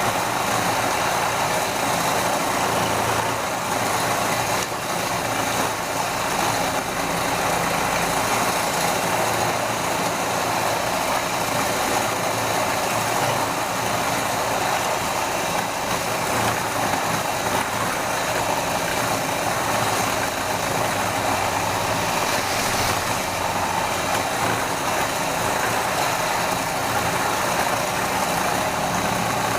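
Electric motor of a homemade drill press running steadily, a constant hum and whir with no change in speed.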